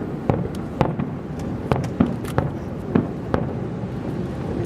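Fireworks display going off: a dozen or so sharp bangs and cracks at uneven intervals, two or three a second, over a steady low rumble.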